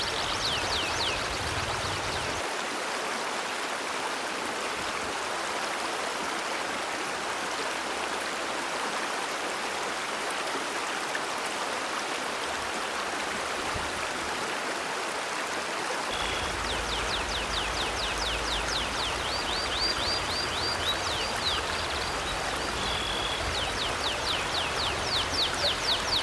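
River water rushing steadily. A bird sings fast trills of quick downward-sweeping high notes in the first second, and again through the last ten seconds.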